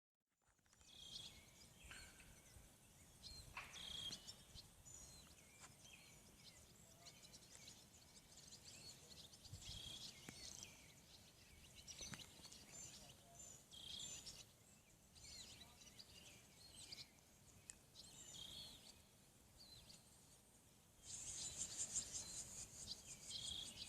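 Faint bird song outdoors: a short, chirpy phrase repeated every couple of seconds. Near the end an insect's fast, high pulsing trill starts up and becomes the loudest sound.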